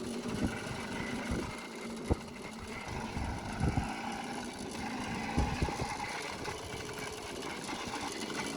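The restored 1969 Babetta 207 moped's small single-cylinder two-stroke engine running.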